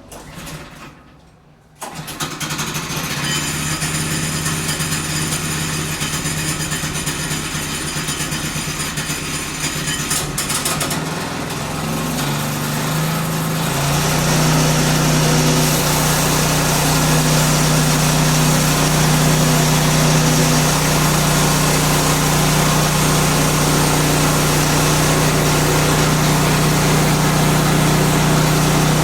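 Small gasoline engine of a Woodland Mills portable sawmill starting about two seconds in and idling. It then speeds up to a steady, louder high-speed run, throttled up to drive the band saw.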